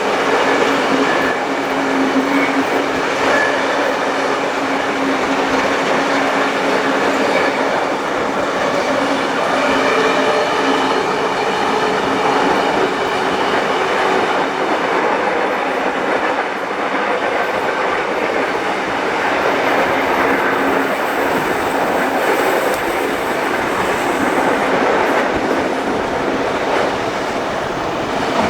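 Passenger train carriages running on the rails: a steady rush of wheel and rail noise with faint ringing tones, strongest in the first half.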